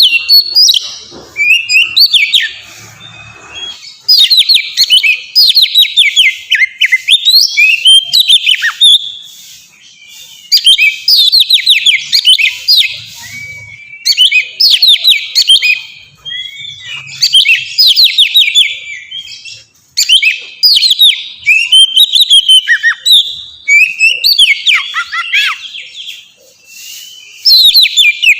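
Oriental magpie-robin (kacer) in loud, open full song: phrases of fast, sweeping whistled notes a few seconds long, broken by short pauses.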